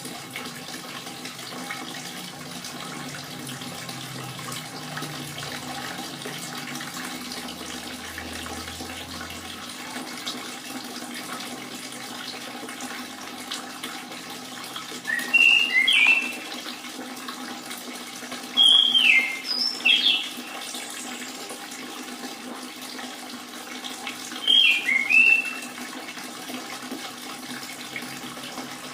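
Steady trickling water, joined in the second half by three short, loud whistled song phrases from an orange-headed thrush, each about a second long.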